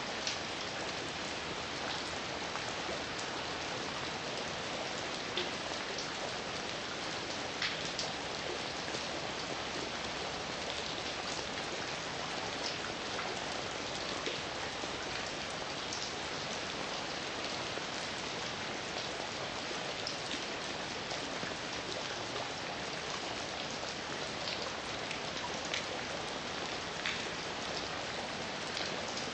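Steady heavy rain falling, a dense even hiss with scattered louder drops ticking on a surface.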